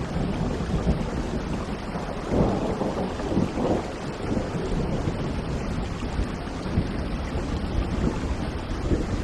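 Steady heavy rain with rolling thunder, the rumble swelling about two seconds in and fading by about four seconds.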